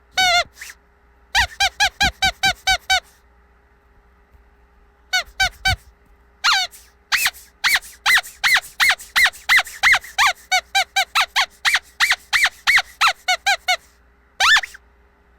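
Squeaky dog toy squeezed over and over, each squeeze giving a short high squeak. The squeaks come in quick runs of about four or five a second, with short pauses between runs.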